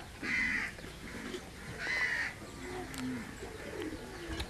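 A bird gives two loud, harsh calls about a second and a half apart, each about half a second long. A fainter, lower cooing follows in the second half.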